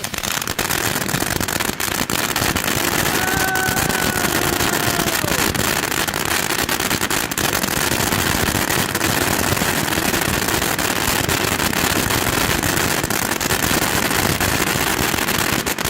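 Ground fountain firework spraying sparks: a steady, dense hiss full of crackles, which cuts off suddenly at the end.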